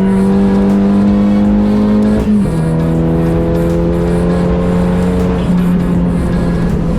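Megane RS turbocharged four-cylinder in the Clio track car pulling hard in a high gear, its note climbing slowly. It drops sharply at an upshift about two seconds in, then climbs again.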